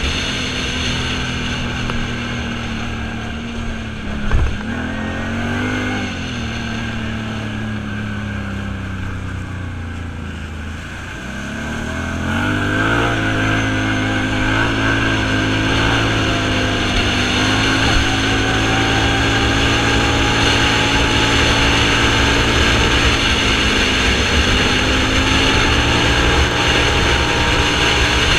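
Off-road vehicle engine running under way. Its pitch dips twice in the first half, with a single knock near the first dip. About twelve seconds in it picks up and runs louder and steadier.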